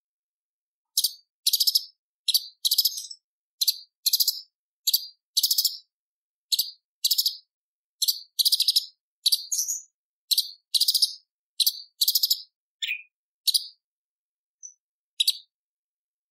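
Cucak cungkok, a leafbird, singing a string of short, harsh, high-pitched rattling phrases, one or two a second with brief pauses between them, starting about a second in.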